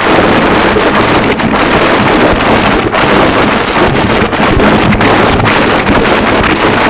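Harsh noise wall: a loud, dense, unbroken wall of static-like noise, with brief momentary dips every second or so.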